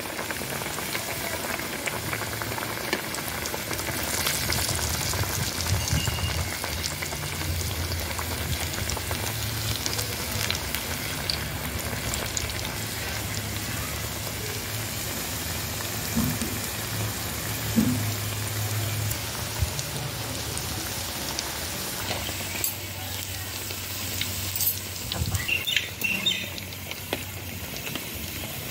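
Masala vadas deep-frying in hot oil, a steady sizzle. A metal spoon and a wire skimmer clink against the pan a few times in the second half as the fritters are turned and lifted out.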